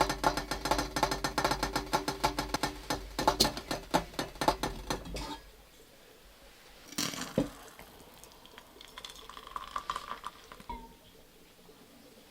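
A fast, even rattle of clicks over a steady tone that stops abruptly about five seconds in, then a soft knock and light clinks of dishes and utensils.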